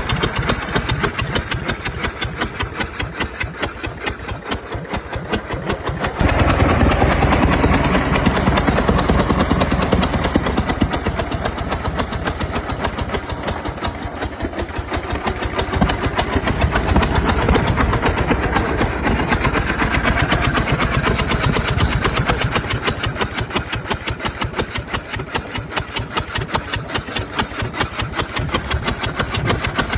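Old farm tractor engine running with an even pulsing beat after a tow start, opened up to more throttle about six seconds in, then swelling and easing in level. This is an engine that has had spark plug and firing-order problems.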